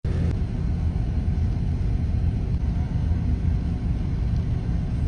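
A loud, steady low rumble with a fainter hiss above it, cutting in suddenly at the start out of silence.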